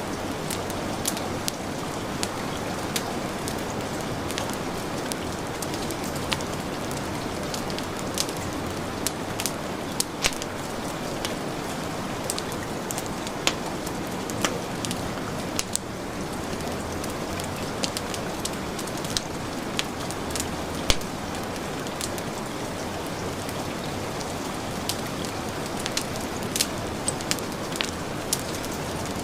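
Steady hiss of heavy rain, with a wood fire crackling over it in irregular sharp pops.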